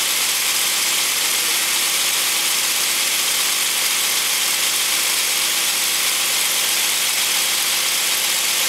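1962 Ford Fairlane's 200 cubic-inch straight-six idling steadily, running with its cylinder head freshly rebuilt after a valve job.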